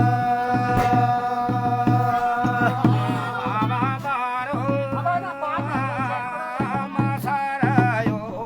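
Jagar folk song: a long held note, then a man's voice singing a wavering, ornamented melody over a steady drum beat.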